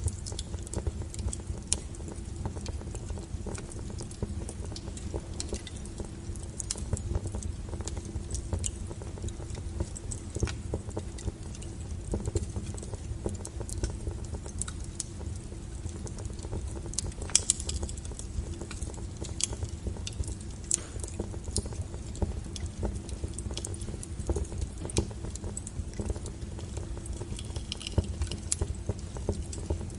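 Wood fire burning with a steady low rumble of flames and frequent sharp crackles and pops of burning firewood, a few louder pops about halfway through.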